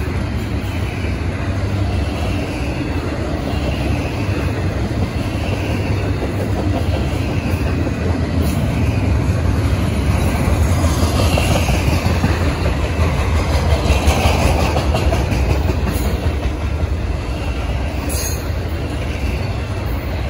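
Double-stack intermodal container cars of a freight train rolling past, a steady rumble of steel wheels on rail that swells a little louder in the middle.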